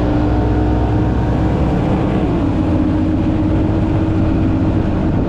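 Two-stroke outboard motor running under throttle as the speedboat gets under way in a slow, deliberate takeoff. Its pitch steps up slightly at the start and then holds steady.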